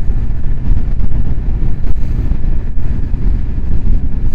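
Motorcycle riding along at steady speed: a constant low rumble of engine and road noise mixed with wind buffeting on the rider's microphone.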